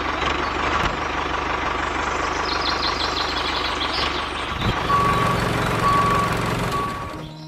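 Tractor engine running steadily, with a reversing alarm beeping three times in the second half.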